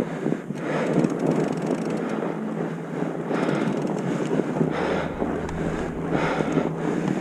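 Wind buffeting a moving microphone over a steady rushing noise, which swells about every second and a half.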